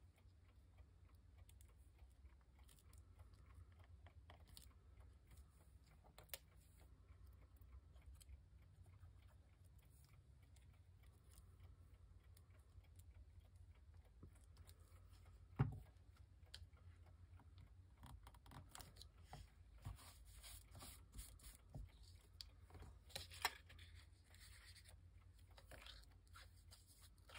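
Near silence with faint tabletop paper-crafting handling noise: scattered small clicks and scrapes, one sharp knock a little past halfway, and a denser run of taps and rustles in the second half.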